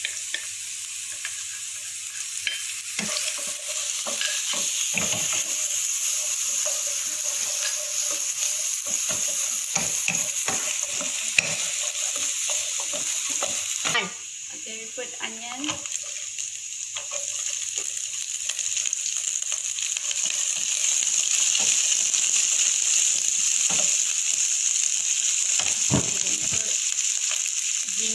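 Chopped garlic, then sliced onion, sizzling in hot oil in a non-stick wok, stirred with a wooden spatula that scrapes and taps against the pan. The sizzle drops suddenly about halfway through, then grows louder again.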